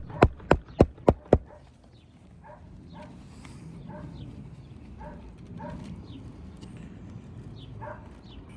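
Hammer driving a roofing nail into an asphalt shingle: about six quick, sharp blows at roughly four a second, ending about a second and a half in. After that come faint short pitched calls every second or so.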